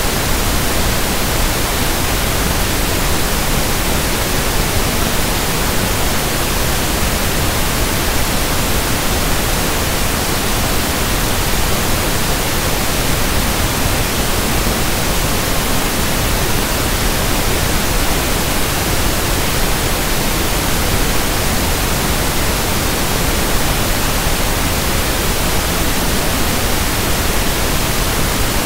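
Steady synthetic pink noise (1/f noise): an even, unchanging hiss spread across the whole range.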